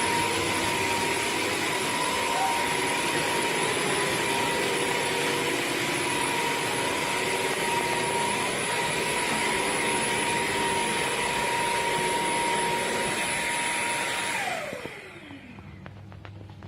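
Bissell CrossWave OmniForce wet-dry vacuum running steadily with a motor whine. Near the end it is switched off and the whine falls away as the motor spins down.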